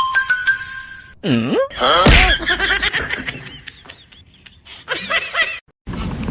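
People laughing, after a short squeal that slides down and back up in pitch about a second in.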